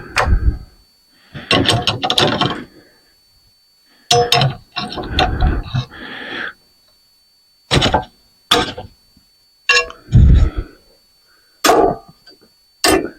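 Metal ceiling-fan parts clinking and knocking as they are handled and worked with hand tools: a string of irregular clinks and heavy thunks with short pauses between them.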